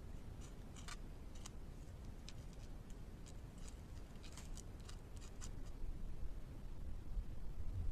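Beaver gnawing on a tree trunk with its incisors: faint, irregular short crunching and scraping bites into the wood over a low rumble.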